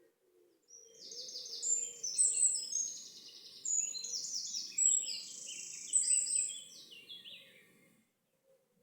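A songbird singing one long, fast, high song of rapid trills and quick descending runs, starting about a second in and stopping abruptly near the end.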